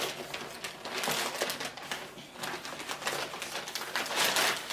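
Packaging crinkling and rustling in irregular bursts as a mail package is opened by hand.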